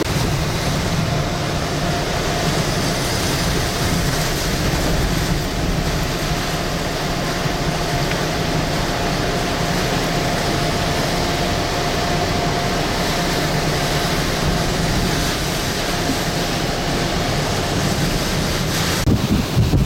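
Hurricane-force wind blowing hard and without a break, a dense rushing roar buffeting the microphone, with a faint steady whistle through most of it.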